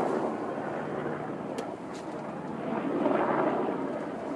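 Large swarm of honey bees buzzing, a dense steady hum that swells about three seconds in.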